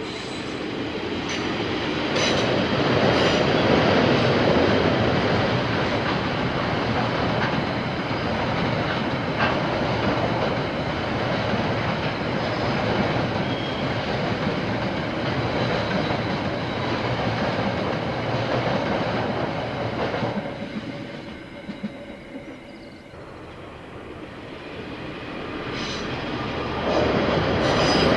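KiwiRail train passing close by: rolling wheel and rail noise with clatter. It builds over the first few seconds, holds steady, dies away about three quarters of the way through, then swells again near the end.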